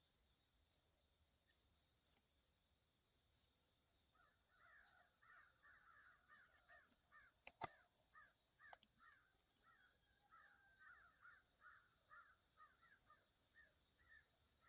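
Near silence with faint bird calls: a quick run of short chirps starts about four seconds in and keeps going, with one sharp click in the middle.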